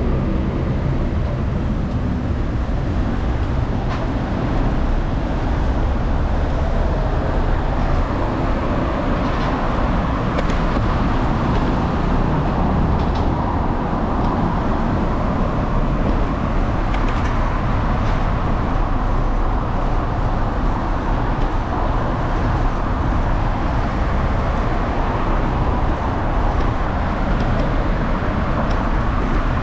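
Steady road and traffic noise heard while riding a bicycle along a road, without a break, with a few faint clicks now and then.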